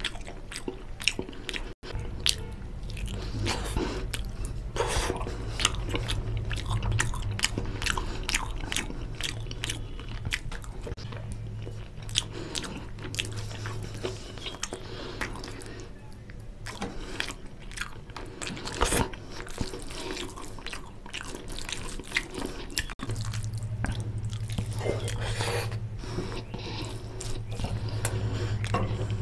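Close-up wet chewing and lip-smacking of a mouthful of fish curry and rice, with many short sharp mouth clicks, over a low steady hum.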